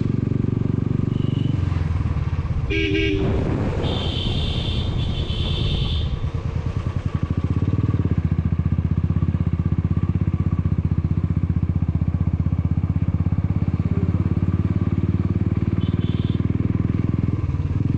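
Motorcycle engine running under way with a steady low pulsing beat, growing louder about eight seconds in. A horn beeps twice about four to six seconds in, with a shorter beep near the end.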